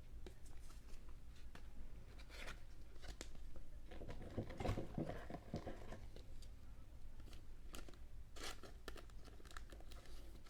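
Faint rustling and crinkling of trading cards and their packaging being handled, with scattered light taps and clicks.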